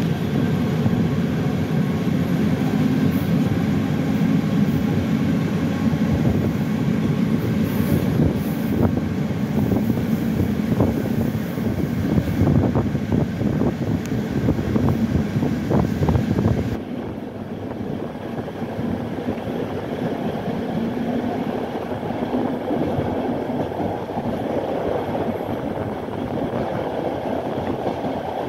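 Passenger train running along the track, a steady rumble of wheels on rails with a few sharp clicks. About two-thirds of the way through, the sound drops suddenly to a quieter, lighter rumble.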